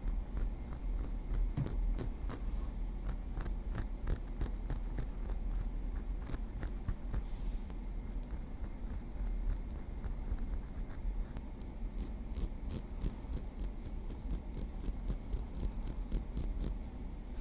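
Small wooden stick tapping lightly, many quick irregular taps and clicks, over a steady low hum.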